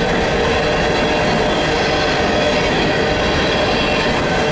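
Empty coal hopper cars of a freight train rolling past at close range: a steady rumble of steel wheels on rail, with thin, steady squealing tones over it.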